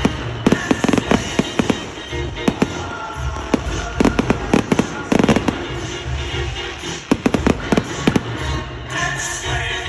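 Fireworks going off in a dense, irregular run of loud bangs and crackles, several per second, with music playing underneath.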